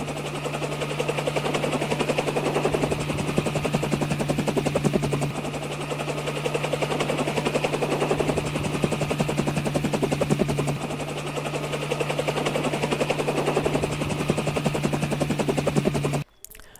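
Helicopter sound effect: rotor blades beating rapidly over a steady low engine hum, holding an even pace, then cutting off suddenly near the end.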